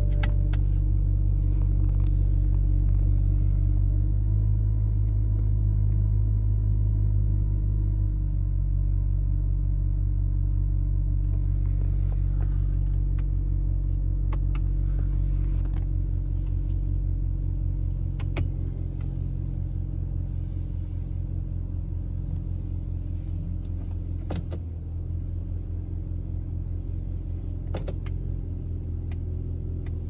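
2011 BMW Z4 sDrive35is's 3.0-litre twin-turbo inline-six idling steadily, with a few faint clicks, growing a little quieter over the last third.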